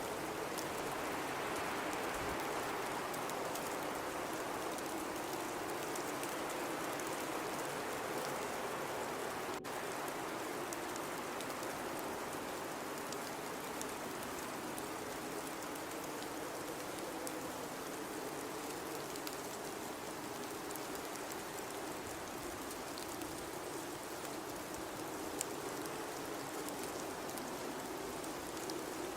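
Blizzard wind blowing steadily with a hiss of driven snow, swelling and easing slowly, with a brief break in the sound about ten seconds in.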